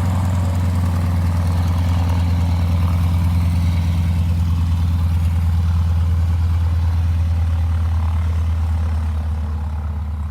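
Piston engine of a WW2-era plane idling before taxiing out, a steady low drone with its propeller turning. It gets a little quieter near the end.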